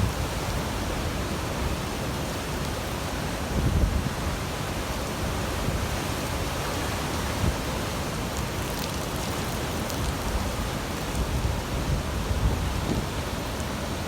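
Wind gusting and buffeting the microphone over a steady rushing noise.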